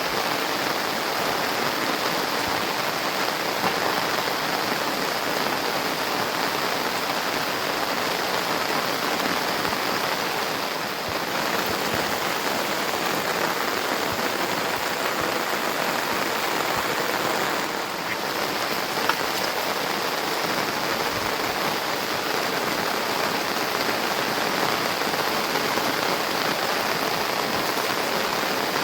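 Steady rain falling, an even hiss of drops on surfaces that dips slightly about eleven and eighteen seconds in.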